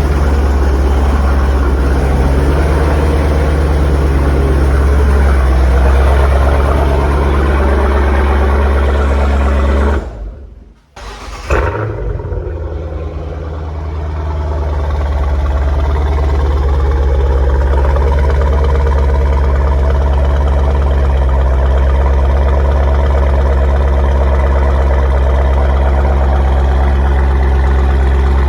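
Jeep Grand Cherokee Trackhawk's supercharged V8 running loud through a Roar Racing aftermarket exhaust, with rising and falling revs. The sound cuts out sharply near the middle, then comes back in with a sudden blip and builds up again over several seconds.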